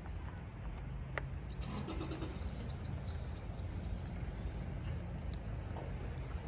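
MG TF 115's 1.6-litre 16-valve four-cylinder engine idling steadily, heard at the twin exhaust tailpipes.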